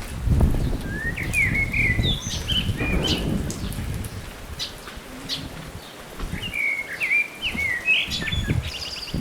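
A songbird sings two short warbled phrases about five seconds apart, over the uneven crunch of footsteps on a dirt trail.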